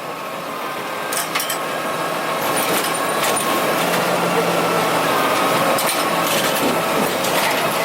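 Curbtender garbage truck running, a steady mechanical noise with a low hum and a few sharp knocks.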